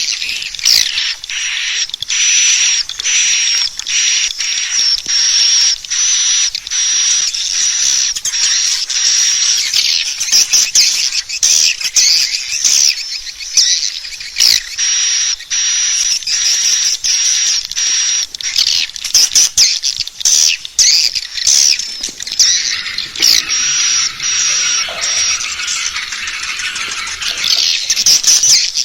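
Swiftlet call recording of the kind played from a swiftlet house to lure the birds in to roost: dense, high-pitched chirping and twittering packed with rapid clicks, and now and then a held high note.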